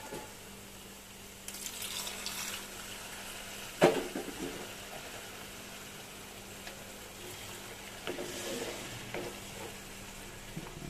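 Ginger-garlic paste frying in oil in a nonstick pan, sizzling while a wooden spatula stirs and scrapes through it, with one sharp knock on the pan about four seconds in.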